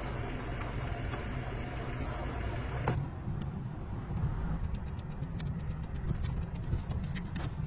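A vehicle engine running steadily with a low rumble, with a scatter of light clicks over it in the second half.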